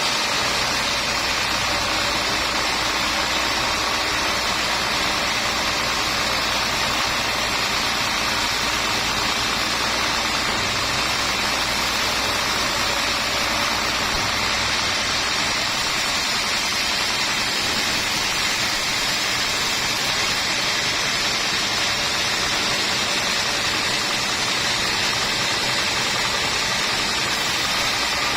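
A steady, unchanging mechanical noise, like a motor running.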